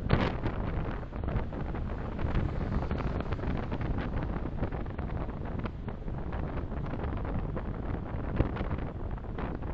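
Steady road and wind noise from a moving car, picked up by a dashcam microphone. A short louder rush comes right at the start, and a single sharp click about eight seconds in.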